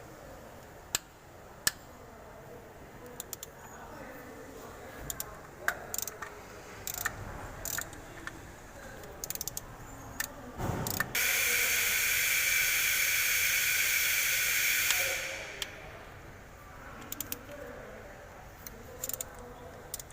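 Hand tools clicking and tapping on metal during engine repair work. In the middle there is a low thump, then a loud, steady hiss lasting about four seconds that fades away.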